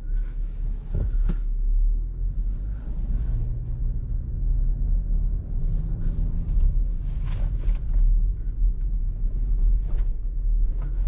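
Range Rover Autobiography idling at a standstill, a steady low rumble heard inside the cabin, with a few faint clicks.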